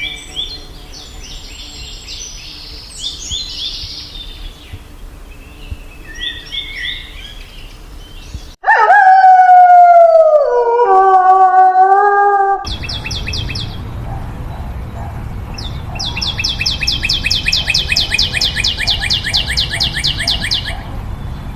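Three animal sounds in a row, each cut off abruptly: first scattered high bird chirps, then a loud, drawn-out animal call with a falling pitch lasting about four seconds, then a fast, even high-pitched trill of about five notes a second.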